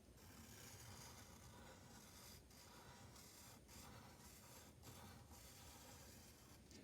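Faint scratching of a drawing pen on paper as lines are drawn, in long strokes broken by brief pauses where the pen lifts.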